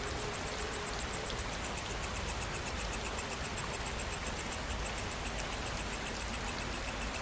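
Steady rain falling, with a fast, rhythmic high-pitched insect chirping over it; a second, lower insect trill joins about two seconds in.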